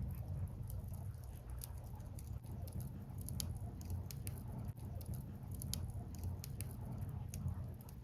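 Burning firewood crackling, with many small irregular pops and snaps over a steady low rumble.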